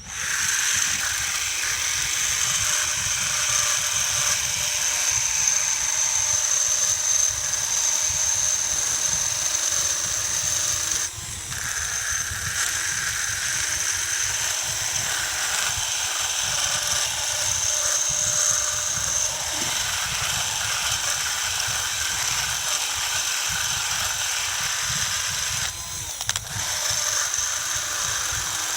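Handheld power tool running continuously with a steady high whine, dropping off briefly twice, about eleven seconds in and near the end.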